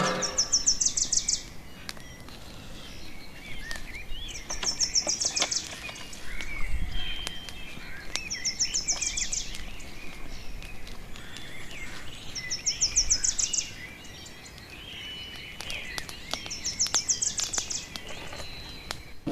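Birds calling: one bird repeats a short, fast, high trill about every four seconds, five times, while other birds chirp and whistle around it.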